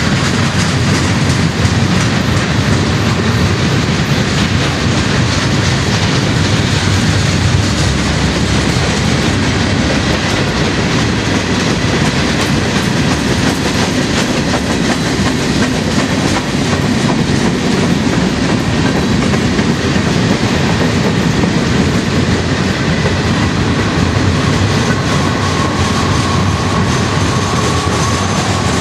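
Freight train cars rolling past: a steady rumble of steel wheels on rail with clickety-clack over the rail joints. A thin, high wheel squeal comes in near the end.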